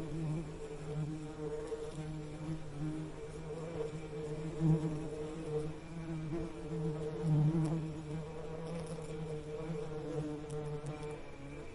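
Bee buzzing: a steady low hum with overtones that swells and fades, loudest about five and seven and a half seconds in.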